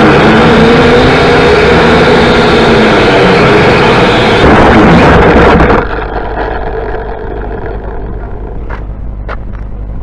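Loud, steady motor drone with a few slightly wavering pitches. About six seconds in it drops suddenly to a quieter hum, with two faint clicks near the end.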